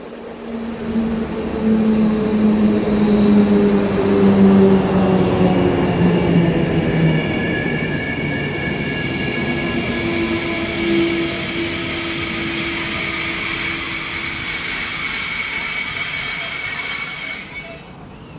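Electric-hauled passenger train pulling into a station platform. As the locomotive passes, a low hum falls slowly in pitch. Then the Intercity coaches roll by with a steady high-pitched squeal from the brakes and wheels as the train slows to a stop.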